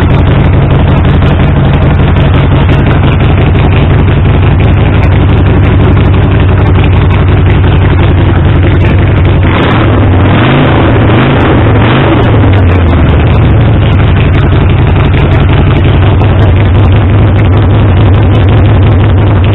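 Harley-Davidson Sportster's air-cooled V-twin running through a home-made custom exhaust, idling steadily. About halfway through, the throttle is blipped a few times, the revs rising and falling, before it drops back to idle.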